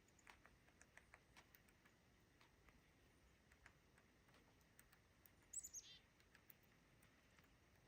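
Near silence, with faint scattered ticks and one short bird call about five and a half seconds in that falls quickly in pitch.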